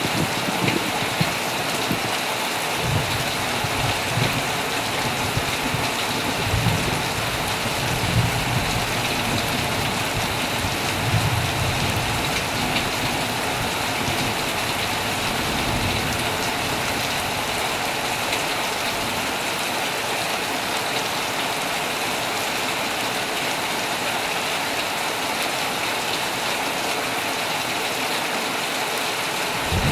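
Heavy rain falling steadily on a tent. A low, rolling rumble of thunder runs under it for the first half and fades away a little past the middle.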